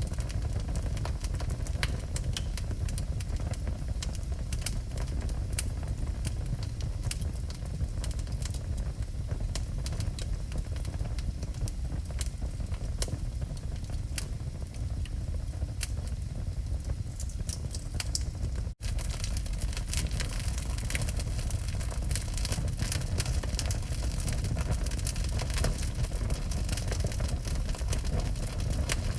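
Wood fire burning in a fireplace: frequent sharp crackles and pops over a steady low rumble. The sound cuts out for an instant about two-thirds of the way through, and the crackling is denser after that.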